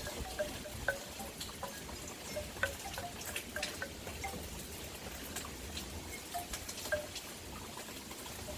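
Wind chimes tinkling with scattered, irregular single notes as the storm wind sets them swinging, over a steady low rumble of wind.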